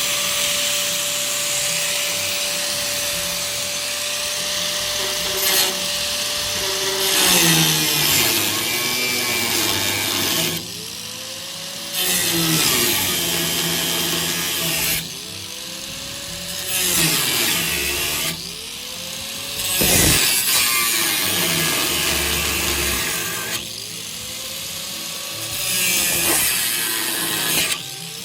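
Power tool cutting through a metal nut. The motor runs steadily at first, then about seven seconds in it starts bogging down under load and winding back up again and again. Harsh cutting noise stops for a moment about six times as the tool is lifted off.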